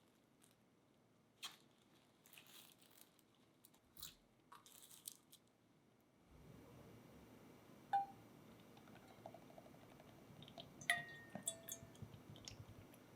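Quiet kitchen handling sounds: scattered light clicks, crunches and clinks of utensils and dishes. A steady low background hiss starts about six seconds in.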